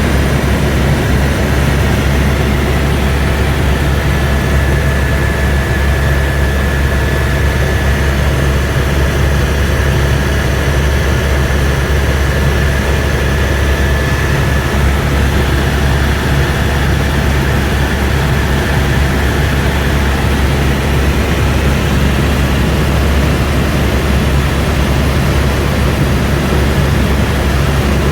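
Airbus AS350 B2 helicopter in flight, heard from inside the cabin: a loud, steady drone of turbine and rotors, with a faint high whine that comes in about four seconds in and fades out a little past the middle.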